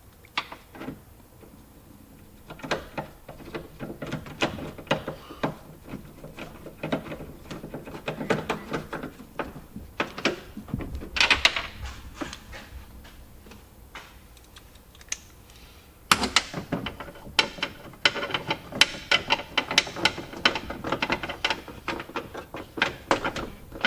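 Hand ratchet wrench clicking in quick runs as nuts are run onto studs threaded into plastic, snugged only hand tight. The clicking gets denser and louder about two-thirds of the way in.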